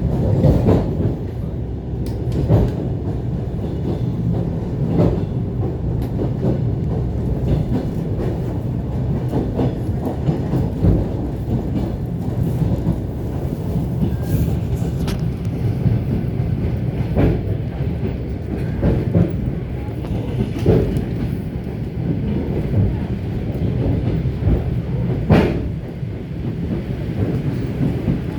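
ET2 electric train running along the line with a steady low rumble. Short wheel clicks over the rail joints come every couple of seconds.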